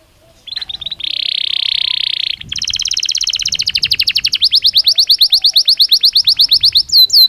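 Belgian canary singing. About half a second in it starts with a dense, fast buzzing trill, then runs of rapid repeated notes, and near the end switches to slower downward-sweeping notes.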